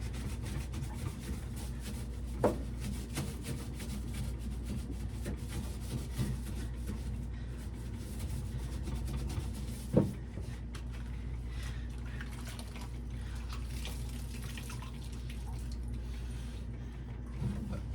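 Paper towel wiping and scrubbing sticky residue inside a refrigerator, a steady rubbing over a low hum, with two sharp knocks about two and a half seconds and ten seconds in.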